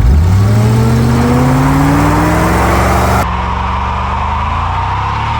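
Ford SVT Lightning's supercharged 5.4-litre V8 revved hard for a burnout while towing a trailer loaded with a car, its pitch climbing steadily for about three seconds. About three seconds in the sound changes abruptly to a steadier, even engine note.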